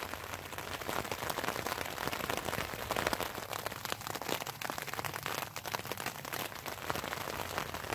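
Rain falling on a tent: a steady, dense patter of drops.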